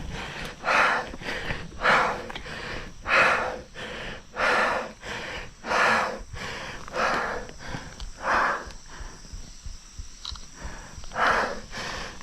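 A mountain biker's heavy, rhythmic breathing from hard exertion on the climb: a loud breath out about every second and a quarter, with a pause of about two seconds near the end.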